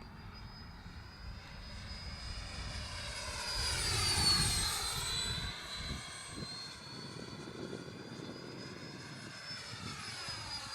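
Electric RC model airplane flying past with a high whine. The whine's pitch sweeps down and back up, and it is loudest about four seconds in as the plane passes close.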